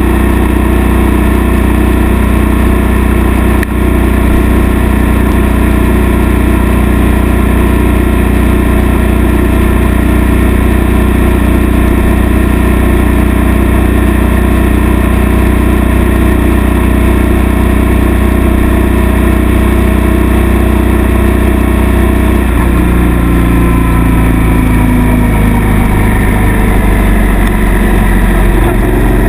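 Suzuki M800 V-twin motorcycle engine running steadily under way, heard from the bike. About 22 seconds in the engine note changes, as at a gear change, and its pitch then slides gradually.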